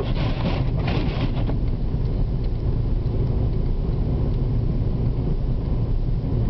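Car driving through a snowstorm, heard from inside the cabin: a steady low rumble of engine and tyres on the snowy road, with a brief hiss of noise in the first second and a half.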